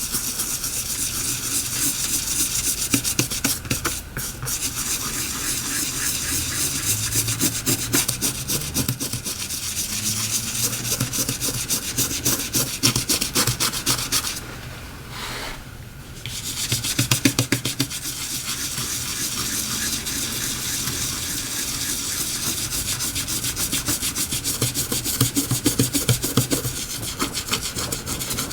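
Brush scrubbing rapidly back and forth over a Samsung Galaxy S7 edge's display panel, cleaning it up after glass removal, with a short pause about halfway through.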